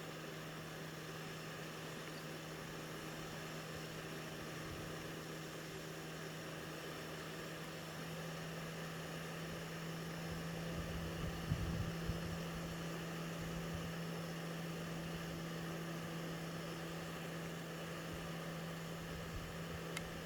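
A steady low engine hum at one constant pitch over a soft hiss, with a few soft knocks about halfway through.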